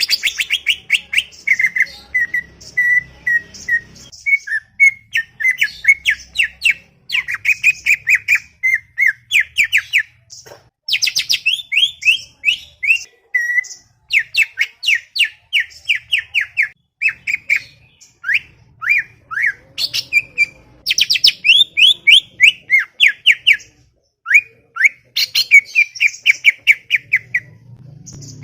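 Green leafbird (cucak ijo) singing a fast, chattering song: rapid strings of short whistled notes and trills, running almost without a break except for a few short pauses.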